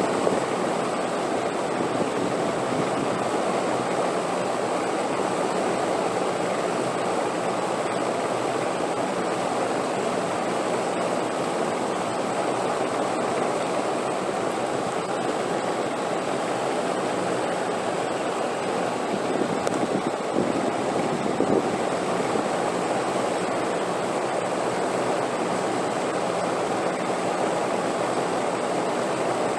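Steady rushing wind, an even continuous noise that swells slightly about two thirds of the way through.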